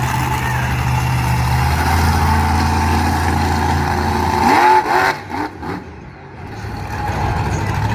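Monster truck engine running loud and steady, revving in a few quick bursts just before the middle. The sound then drops off sharply and builds back up near the end.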